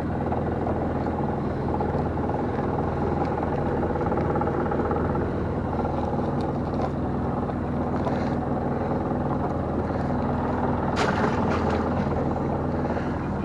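Small fishing boat's engine running steadily, with a few light knocks about eleven seconds in.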